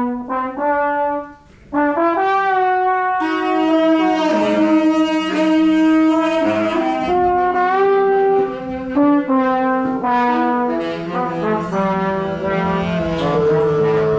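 Musicians in a group free improvisation, several instruments playing at once: a few short separate notes with a brief pause, then overlapping held notes at different pitches that shift and change from about two seconds in.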